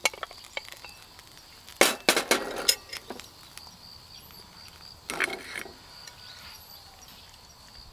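Steady high insect trill with a few short bursts of clicking and rattling, about two seconds in and again about five seconds in.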